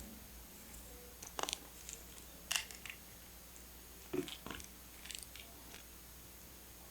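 Paper and stationery being handled during journal decorating: a few short rustles and taps at irregular intervals.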